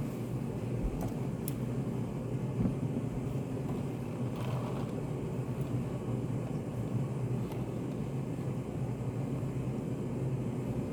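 Study cafe room ambience: a steady low hum and rumble with a few faint clicks scattered through, and a brief slightly louder rustle about four and a half seconds in.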